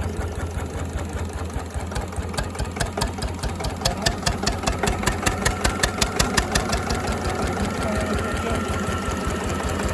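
Slavia 8 hp stationary diesel engine running with an even beat of firing strokes, its first run after four years standing. The beats grow louder from about four seconds in.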